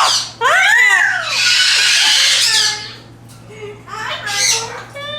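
Caged parrots calling: high whistled notes that rise and fall, then a loud harsh squawk about a second and a half in, lasting about a second. Quieter calls follow near the end.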